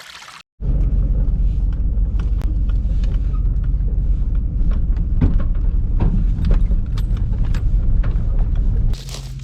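Truck driving over rough, uneven ground: a loud, steady low engine rumble with many short knocks and rattles from the bumps. Near the end it drops to a quieter, steadier low hum.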